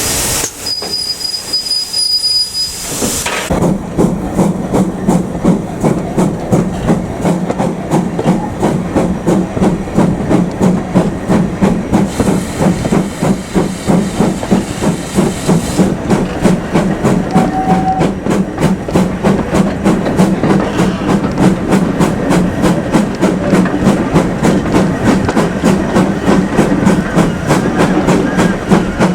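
GWR Manor class steam locomotive working hard: a hiss of steam for the first few seconds, then a steady run of sharp, barking exhaust beats.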